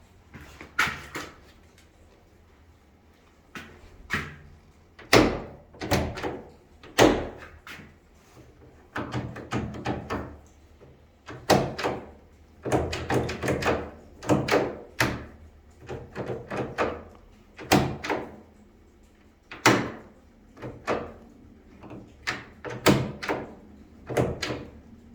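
Door handle and latch being worked while the handle is replaced: a long run of irregular clicks, knocks and rattles, some single and some in quick clusters.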